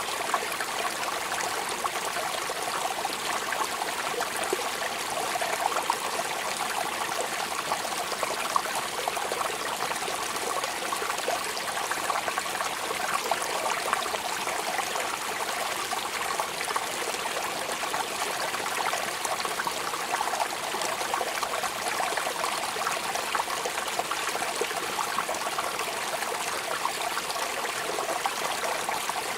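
Steady rain falling, an even hiss of water with many small drop impacts scattered through it, unchanging throughout.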